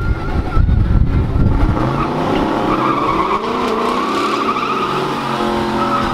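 A car doing a burnout: the engine is held at high revs while the rear tyres spin and squeal in a wavering screech, after a low rumble in the first couple of seconds.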